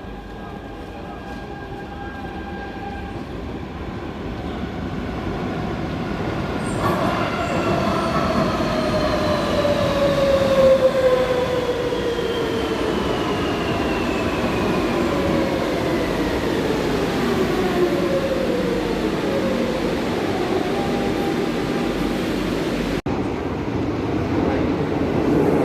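Madrid Metro train coming into a station: a rumble growing steadily louder, with a whine of several tones that falls in pitch from about seven seconds in as the train slows.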